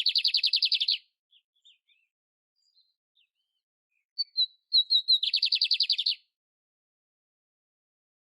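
Canary (canário império) singing a repeated phrase: a few quick high notes run into a fast buzzy trill of about a dozen pulses a second, lasting about a second. The trill is ending at the start, and the whole phrase comes again about four seconds in, with faint short chips between.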